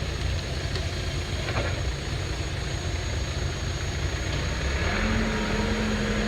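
An engine running steadily with a low rumble, with a steady low tone coming in about five seconds in.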